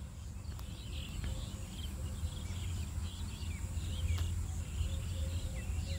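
Faint chirping of small birds over a steady low hum.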